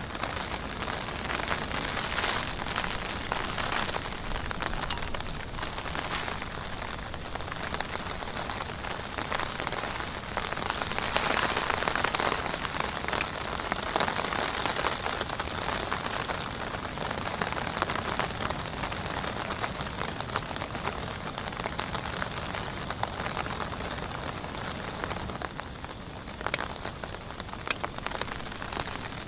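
Heavy rain falling steadily, with individual drops hitting sharply here and there; it swells a little about eleven seconds in.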